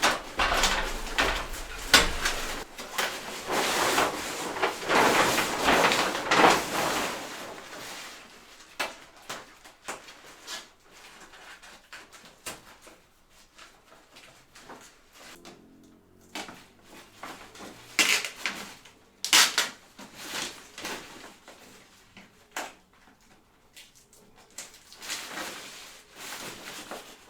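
Duct tape being pulled off the roll in a series of long, rasping rips for the first several seconds, then scattered handling knocks and scrapes as it is pressed into place.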